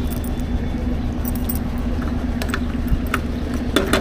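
A motorcycle being refuelled at a petrol pump: a steady low mechanical hum with scattered short metallic clinks and jingles.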